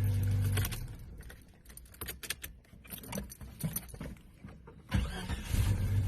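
A vehicle's steady low engine hum stops about a second in. A quieter stretch of small clicks and jingles like keys follows, then a thump near the end, and the steady hum comes back.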